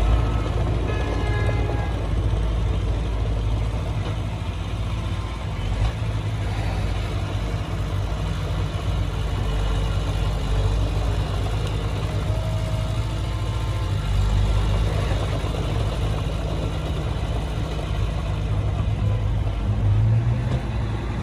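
Heavy diesel engine of earthmoving machinery, a bulldozer or dump truck, running steadily at work.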